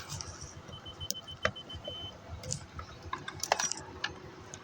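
Scattered sharp clicks and light rattles of hands working at a car's fuse box, over a low rumble. A faint rapid high beeping starts about a second in and lasts over a second.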